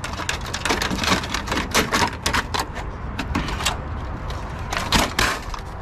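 Rapid, irregular clicking and clattering of hard plastic and sheet-metal printer parts being handled and pulled apart, with a louder knock about five seconds in.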